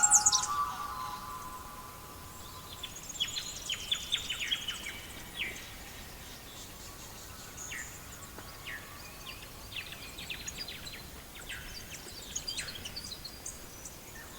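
Songbirds chirping: many short, quick descending chirps scattered throughout over a faint steady hiss, with a louder burst of song at the very start that fades within the first second.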